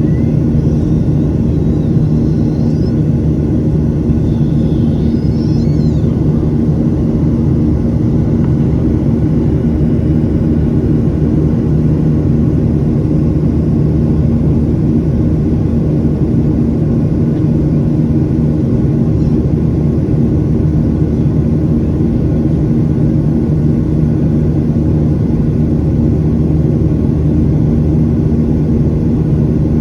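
A Boeing 737-800's CFM56 jet engines running with a steady, unchanging drone and low hum.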